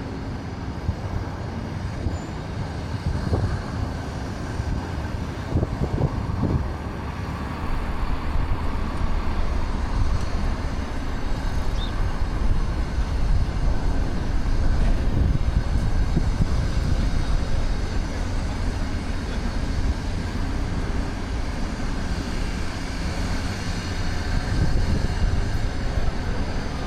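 City street traffic: a steady rumble of passing vehicles, growing louder about eight seconds in.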